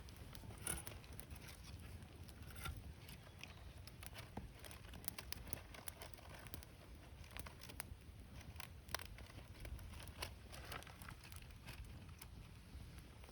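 Wood campfire crackling softly, with scattered sharp pops and snaps from the burning wood.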